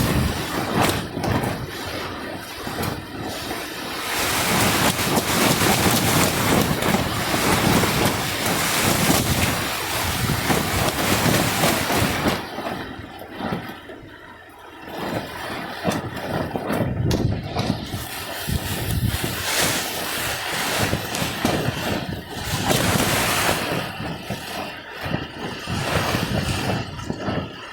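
Heavy rain with gusting wind, the noise swelling and easing in gusts, with wind buffeting the microphone.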